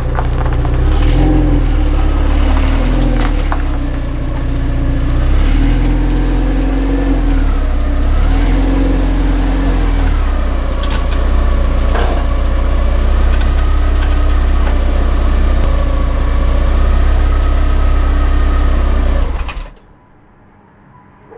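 1995 Jeep Cherokee XJ engine running, its pitch rising and falling a little, over a steady low drone. The sound cuts off abruptly about nineteen seconds in.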